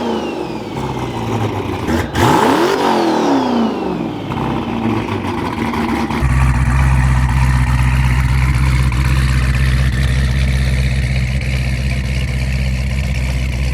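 Heavily modified Hellcat V8, making almost 2,000 horsepower, blipped hard about two seconds in: a sharp crack, then the revs rise and fall. About six seconds in the sound changes suddenly to a steady, loud, deep rumble.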